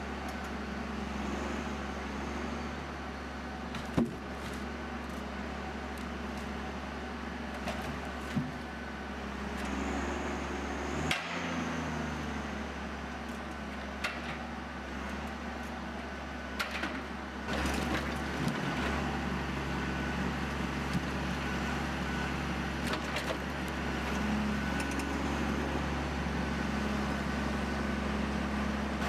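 A large engine running steadily, with a few sharp knocks, as from heavy machinery at work.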